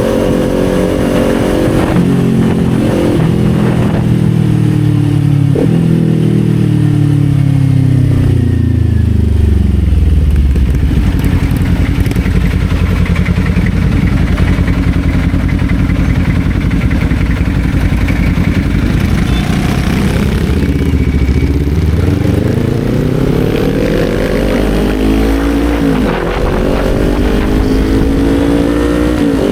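Kawasaki Z400's parallel-twin engine slowing down, its pitch falling in steps through the first ten seconds. It then runs low and steady for about twelve seconds, and accelerates again, rising with a gear change a few seconds before the end.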